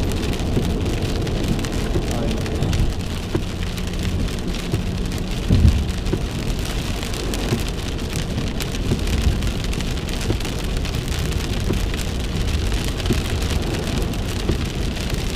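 Heavy rain pelting a moving car's roof and windows, heard from inside the cabin as a dense, steady patter over a low road rumble. One heavier low thump comes about five and a half seconds in.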